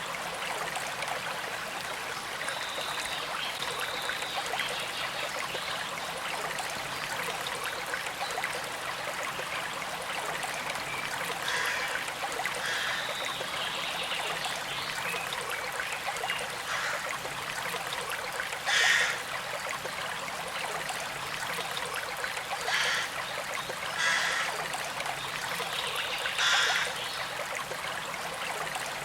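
Small stream flowing steadily with a constant trickle, with a few brief, louder splashes in the second half.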